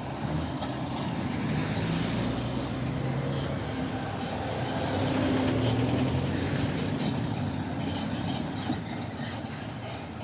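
A motor vehicle's engine running close by, getting louder toward the middle and fading near the end.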